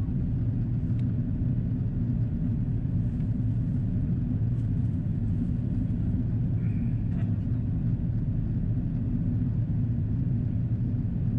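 Steady low rumble inside the cabin of an Airbus A330-343 in descent: airflow and its Rolls-Royce Trent 700 engines heard by a window seat.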